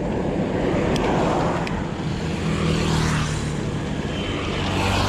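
Road traffic going by: motor vehicles passing with a rush of tyre and engine noise that swells twice, a low engine hum in the middle, and a couple of light clicks.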